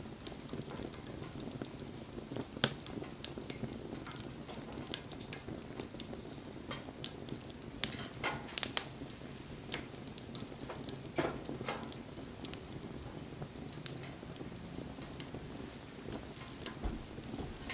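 Wood fire crackling: irregular sharp pops and snaps over a low, steady rush, the loudest pop about two and a half seconds in.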